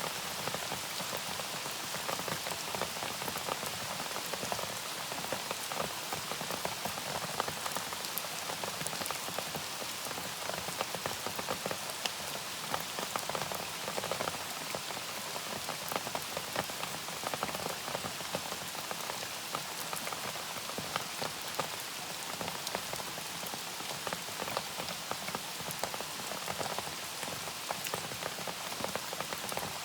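Steady rain falling, with many separate close drop hits on a surface over an even hiss.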